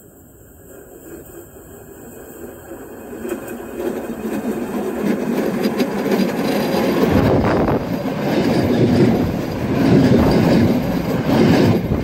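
EN57 electric multiple unit approaching along the track, its rumble growing steadily louder, then passing directly over the microphone from about seven seconds in with loud rumbling and clattering wheels, punctuated by sharp knocks.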